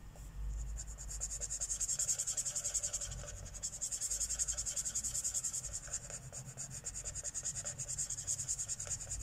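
Marker tip rubbing on paper in rapid short back-and-forth strokes, colouring in an area of a page.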